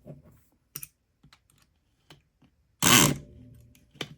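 Light metal clicks of a tension tool and pick needle in a deadbolt cylinder, then a short loud burst from a Southord E500XT electric pick gun about three seconds in, fading into a steady tone for about a second.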